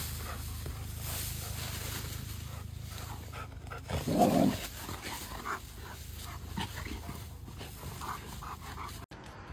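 A dog vocalising, with one loud short call about four seconds in and smaller sounds after it, over a low steady hum; the sound breaks off suddenly near the end.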